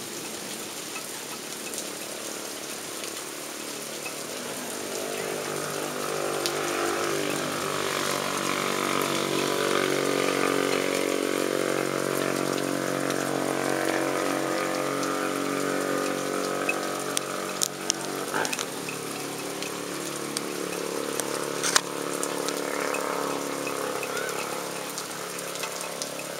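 Heavy rain falling, with a steady low mechanical hum that swells in the middle and then fades back, and a few sharp clicks near the end.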